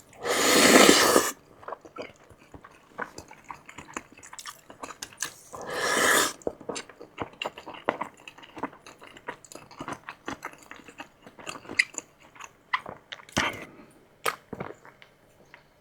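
Close-miked person eating: wet chewing with many small mouth clicks throughout, and two loud slurps of about a second each, one near the start and one about six seconds in.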